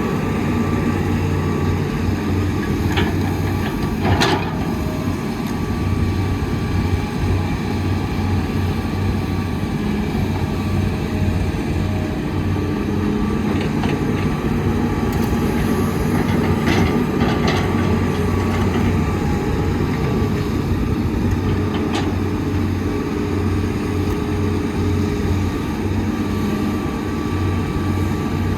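Diesel engine of heavy earthmoving machinery running steadily, with a few sharp metallic knocks, the loudest about four seconds in.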